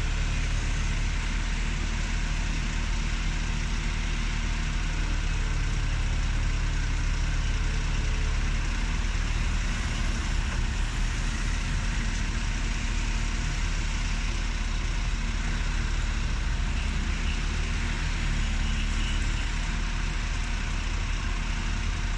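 Engine of a large vehicle idling steadily, a constant low hum with no change in speed.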